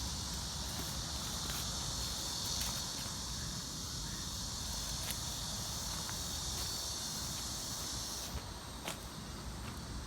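Steady high-pitched chorus of crickets that drops away about eight seconds in, over a low rumble, with a few light clicks.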